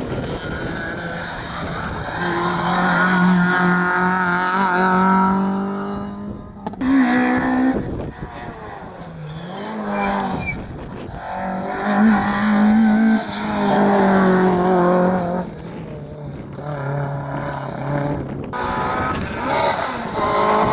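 Rally cars at full throttle on a stage, engines held high in the revs with the pitch rising and dropping through gear changes. It comes as several short clips cut together, the sound changing abruptly a few times.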